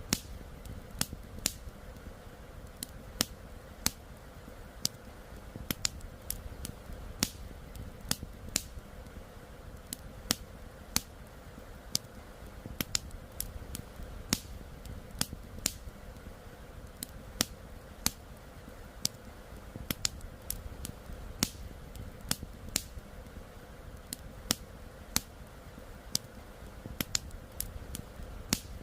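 Wood campfire crackling, with irregular sharp pops about one or two a second, over the steady low rush of a flowing river.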